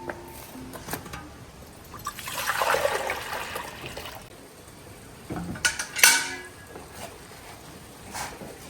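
A short rush of water lasting about two seconds, then a few sharp clinks and a clatter a couple of seconds later.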